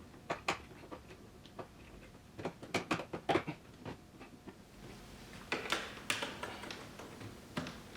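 Irregular small clicks and taps of hands and tools working on car wiring, in clusters, as a wire is spliced in.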